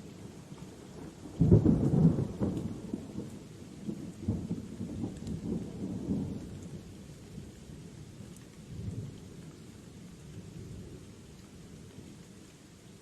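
A thunderclap breaks about a second and a half in and rolls on in low, crackling rumbles for several seconds, with a weaker rumble near the end, over a steady hiss of rain.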